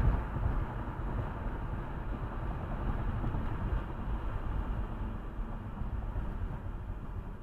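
Steady rumble of road and engine noise from a moving car, heard from inside the car; it starts abruptly at the beginning.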